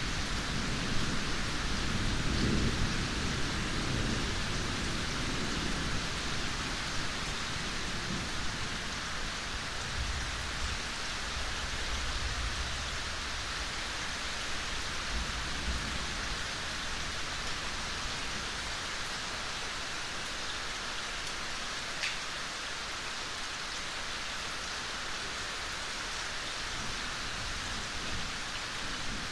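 Steady rain falling in a forest, an even hiss of drops on leaves and ground. A low thunder rumble sounds under it in the first few seconds and again more faintly partway through, then fades.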